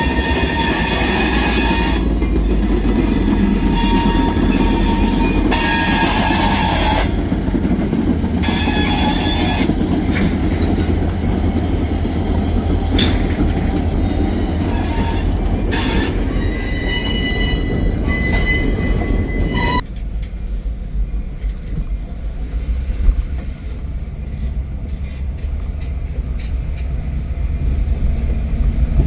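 Freight train rolling past with a steady low rumble, its wheels squealing on the rail in high-pitched bursts that come and go. About twenty seconds in the sound drops off abruptly to a quieter steady rumble.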